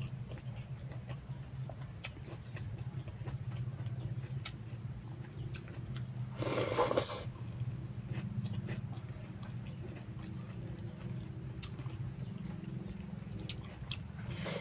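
Mouth sounds of a person eating rice and banana-heart salad by hand: small wet chewing clicks and smacks, over a steady low hum. About halfway through there is a short, louder rush of noise.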